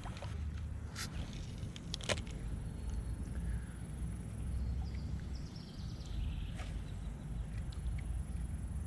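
A steady low rumble with a few sharp clicks, the loudest about two seconds in.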